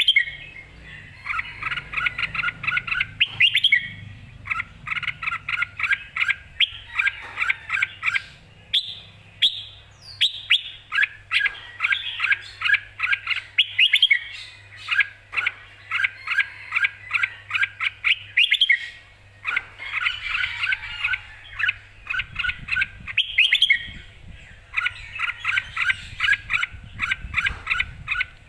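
Red-whiskered bulbul singing lively and loud, repeating phrases of quick chirping notes in runs of a second or two with short pauses between them.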